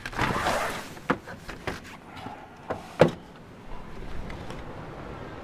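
A short rush of noise, then a run of sharp knocks and clunks, the loudest about three seconds in, over a steady outdoor hiss.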